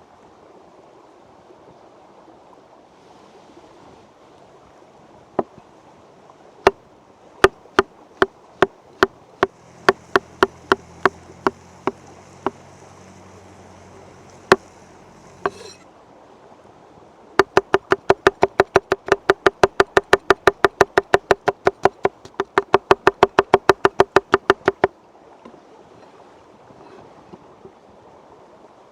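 Knife chopping food on a wooden cutting board: spaced single chops, some about two a second, then a fast steady run of about five chops a second lasting about seven seconds, over the steady rush of a stream.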